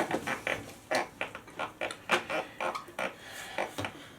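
Steel tyre levers clinking and scraping against a Honda CT110 wheel rim as the tyre bead is forced over the rim by hand: an irregular run of quick metallic knocks, several a second.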